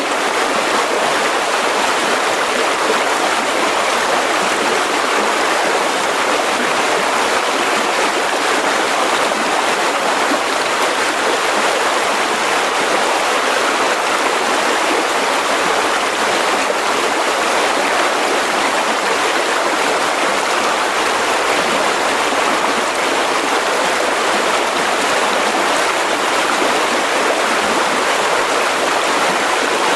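Mountain river rushing over rocks: a steady, loud rush of water that does not change.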